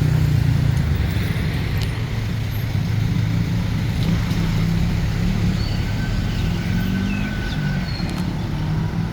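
Road traffic: car engines running and passing, a steady low drone with a slight rise and fall in pitch.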